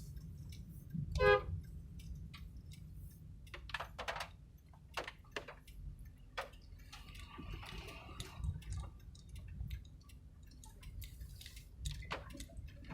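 Low, steady road rumble of a vehicle driving, with scattered light clicks and rattles. A short high-pitched beep sounds about a second in.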